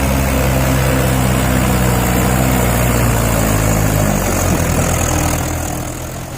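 Tractor diesel engine running steadily, with a deep even hum that fades somewhat near the end.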